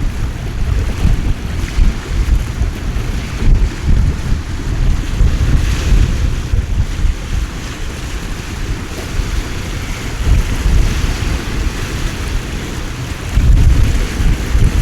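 Heavy rain hissing steadily, with strong wind buffeting the microphone in low, gusting rumbles that grow stronger near the end.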